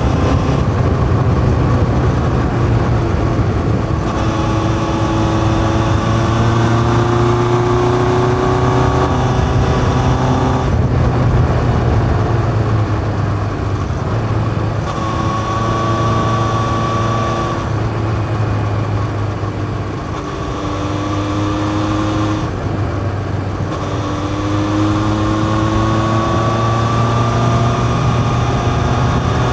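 1981 Yamaha XJ550 air-cooled inline-four with a 4-into-1 exhaust and open K&N pod filters, running under way. The pitch climbs steadily as the bike pulls, breaking off and starting again at gear changes about 11, 15 and 23 seconds in.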